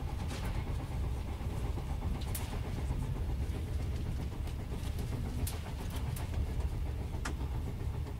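Inside a Japanese National Railways Yokosuka Line electric train on the move: a steady low rumble from the running gear, with a few short sharp clicks scattered through it.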